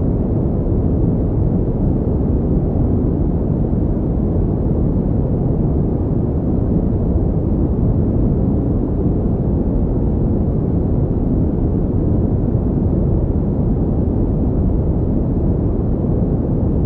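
Pink noise: a steady, unchanging rushing sound, deep and heavy in the low end with little hiss on top.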